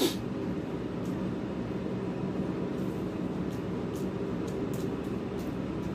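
A man chewing a mouthful of fried tilapia and rice, with faint, scattered lip smacks and mouth clicks, over a steady low mechanical hum.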